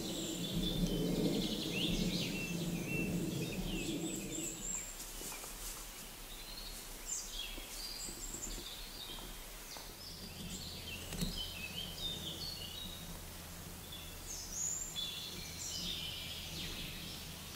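Small birds chirping and singing, many short high calls and trills throughout. A low drone underneath fades out about four seconds in.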